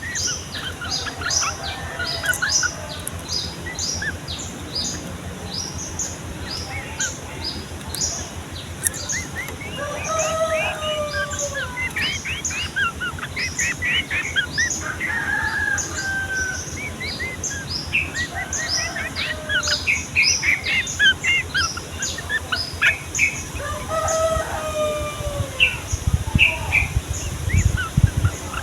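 A group of yellow-vented bulbuls chirping and singing together in long, rapid, overlapping phrases of short calls. Twice a lower, longer call sounds beneath the chorus.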